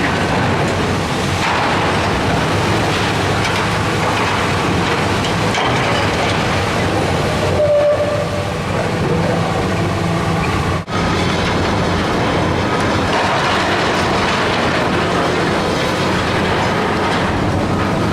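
Heavy demolition machinery at work: a diesel engine running steadily under continuous crashing, grinding and clanking of steel and debris as the building is torn down. A short metallic squeal comes about eight seconds in, and the sound drops out for an instant near eleven seconds.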